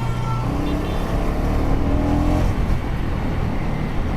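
KTM Duke 250's single-cylinder engine accelerating under the rider, its pitch rising over the first couple of seconds, with steady wind and road noise.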